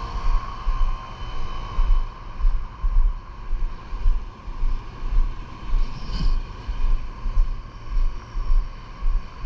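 Wind buffeting the microphone in uneven gusts, over a steady machine hum with a faint whining tone.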